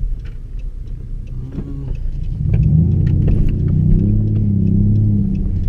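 Straight-piped exhaust of a 2011 Dodge Charger's 3.6-litre V6 rumbling. About halfway through it grows louder into a low droning tone that rises slightly and holds, then eases back near the end: the exhaust drone of a straight pipe under throttle.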